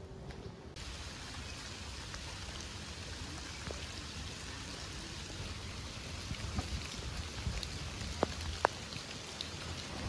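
Steady summer rain falling, an even hiss with scattered drop ticks, starting abruptly just under a second in; two sharper drip clicks land about eight seconds in.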